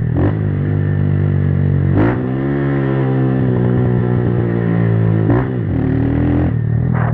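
A 160 cc single-cylinder motorcycle engine through a Fortuna Trioval aftermarket exhaust, accelerating hard through the gears. The note breaks and climbs again about two seconds in and once more about five and a half seconds in, at each gear change. Wind and road noise run underneath.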